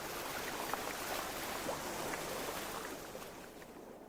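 Sea water washing and fizzing over a rocky shore, with many small crackles, dying away near the end.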